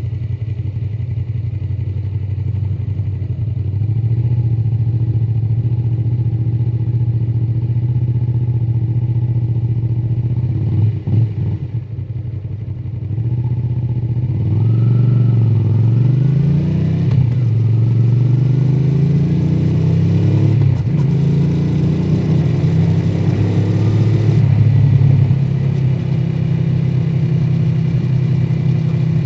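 Honda VTR250's 90-degree V-twin running through its stock exhaust while riding: a steady note, a short dip as the throttle eases off about eleven seconds in, then the revs rising and falling a few times as it pulls away, before it settles into a steady run.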